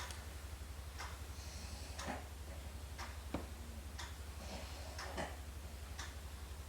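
Faint regular ticking about once a second, with light scrapes and taps from a screw being worked by hand into a computer case, over a low steady hum.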